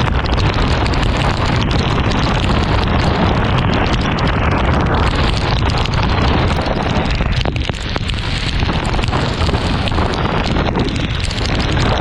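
Heavy wind noise buffeting the microphone on a moving motorcycle in heavy rain, a steady loud rush with rain and road noise mixed in. It eases briefly about eight seconds in.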